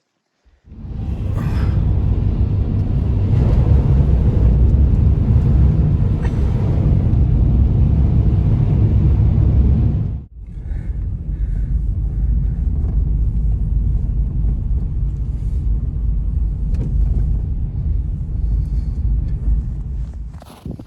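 Strong blizzard wind buffeting the microphone: a loud, steady low rumble that breaks off briefly about ten seconds in and then carries on.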